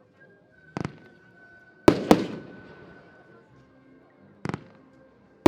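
Xplode Hypnotic 24-shot firework battery firing: a shot leaves the tube with a dull thump and bursts about a second later in a loud double crack that echoes away. Another launch thump follows near the end, and its burst comes right at the end.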